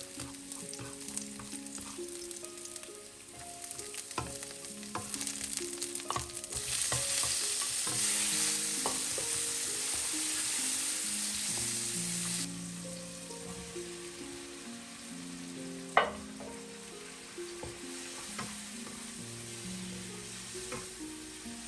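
Garlic sizzling in hot oil in a nonstick pan, stirred and scraped with a wooden spatula with small scattered taps. The sizzle swells for several seconds when tomatoes and red chilies go into the pan, then settles. A single sharp knock of the spatula against the pan comes about two-thirds of the way through.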